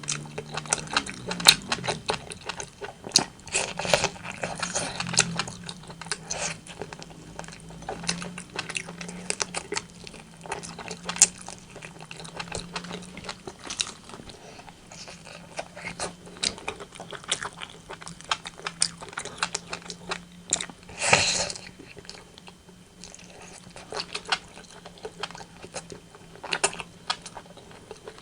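Close-miked eating of rotisserie chicken: irregular biting, crunching and wet chewing, with one longer, louder crunch about three quarters of the way through.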